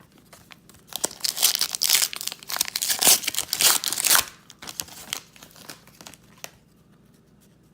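Foil wrapper of a trading-card pack being torn open and crinkled, loudest for about three seconds, then a few lighter crinkles that die away.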